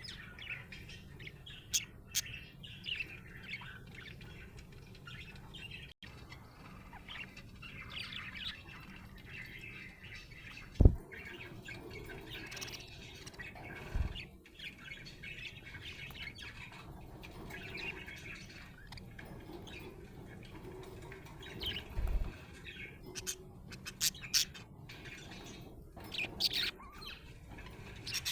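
Budgerigar chirping and warbling continuously in a busy stream of short chirps. A loud thump comes about eleven seconds in, with a few smaller knocks and sharp clicks later.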